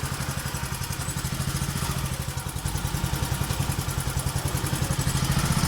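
Boat engine running with a steady, fast-pulsing note, growing a little louder toward the end.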